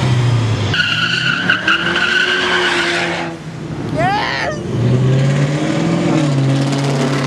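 A car engine revving, then tyres squealing steadily for about two seconds, a brief burst of rising squeals about four seconds in, and the engine running on steadily after.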